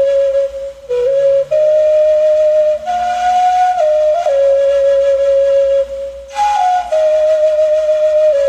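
Flute playing a slow melody of long held notes that step up and down, with short slides between some of them, over a faint backing track.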